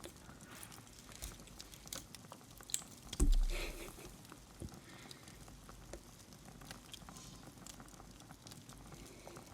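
Small scattered clicks and light rustling of hands untangling a hanging Christmas ornament, with one low thump a little over three seconds in.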